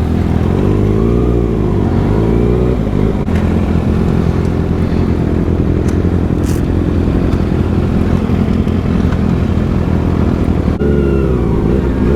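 Sport motorcycle engine running under way, its pitch rising and falling as the revs change about a second in and again near the end.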